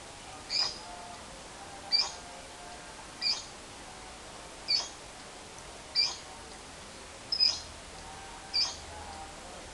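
Lovebird giving short, sharp chirps, about seven of them, a little over a second apart, over a faint steady hiss.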